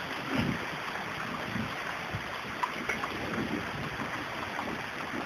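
Heavy rain hammering down: a steady hiss of falling water with scattered small patters, and low gusts of wind buffeting the microphone now and then.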